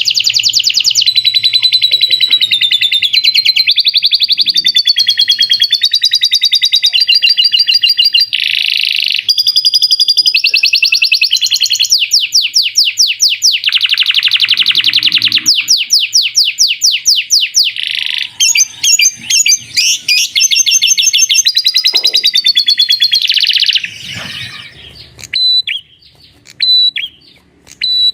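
A songbird singing continuously in a fast run of high trills, rattles and whistled phrases that change every second or two. After about twenty-four seconds it thins to scattered short chirps.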